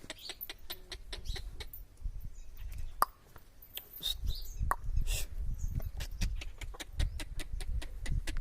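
Farmyard animal sounds: a run of sharp clicks and knocks with a few brief calls, and a low rumble coming in about halfway through.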